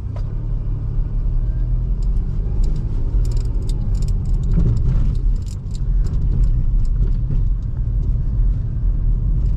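A 2005 Toyota Highlander's 3.3 L V6 pulling away on a snowy road in ECT snow mode, which starts it in second gear, over a steady low rumble of tyres and road. Short crackles are scattered through it. The wheels are gripping without slipping.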